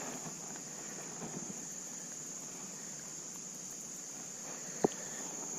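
Insect chorus: a steady, high-pitched continuous buzz, with a single sharp click near the end.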